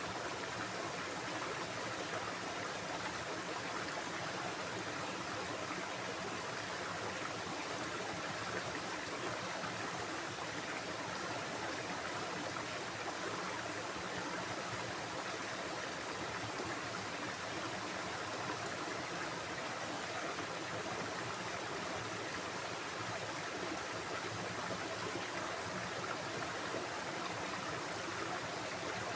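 Stream flowing, a steady, even rush of running water without breaks.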